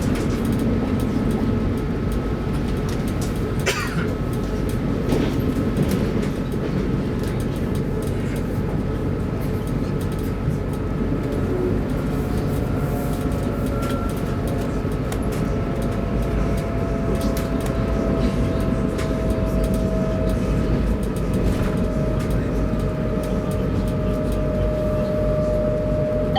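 Arlanda Express electric train running, heard inside the passenger car: a steady low rumble with a thin steady whine, a brief downward sweep about four seconds in, and a second whine that slowly falls in pitch through the second half.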